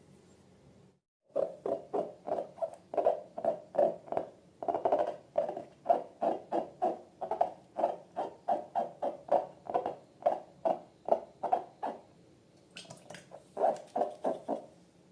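Slime being squeezed and worked by hand, a steady run of short wet squelches at about three a second that pauses near the end and then comes back for a few more.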